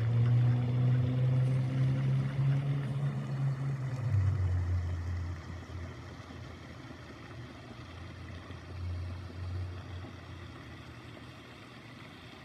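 Engine of a passing motor vehicle, a steady low hum that drops in pitch about four seconds in and then fades away.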